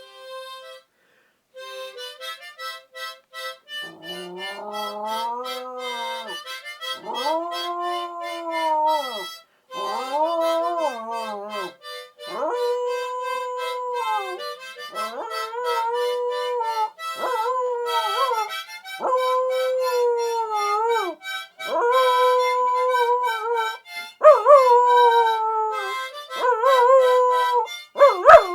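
A dog howling along to a harmonica. The harmonica plays alone at first; from about four seconds in the dog joins with a long series of rising-and-falling howls, each a second or two long, and the howls turn more wavering near the end.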